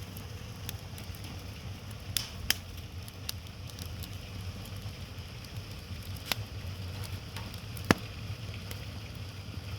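Wood fire burning with a steady low rush, broken by sharp irregular crackles and pops, four louder ones standing out.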